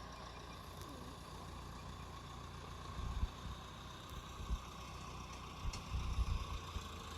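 Wind buffeting the microphone in gusts from about three seconds in, over a faint steady whine from the electric ducted-fan F-18 model jet flying at a distance.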